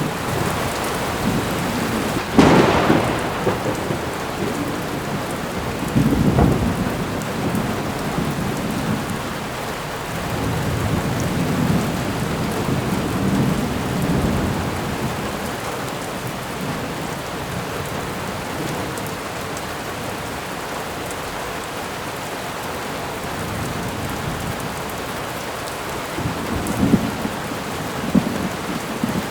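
Thunderstorm: steady rain with thunder over it. There is a sharp crack about two seconds in, another clap about six seconds in, low rolling rumbles a few seconds later, and a couple more strikes near the end.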